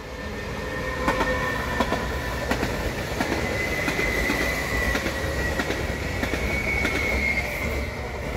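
Two coupled Stadler FLIRT electric multiple units passing close by: a steady rumble with a high-pitched whine running through it and wheels clicking over rail joints. The sound swells over about the first second as the train arrives and then holds steady.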